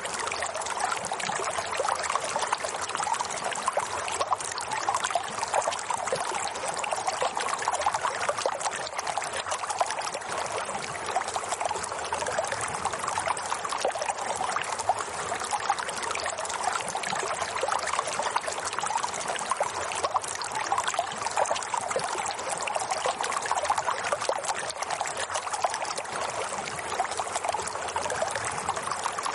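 Steady running water trickling and splashing without a break.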